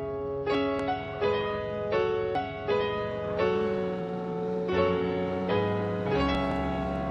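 Piano music: a slow series of sustained chords, changing every second or so, with deeper bass notes coming in past the middle.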